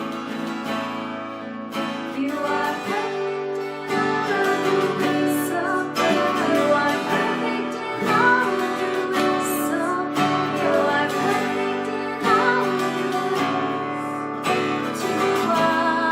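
Acoustic guitar strumming with singing: a worship song.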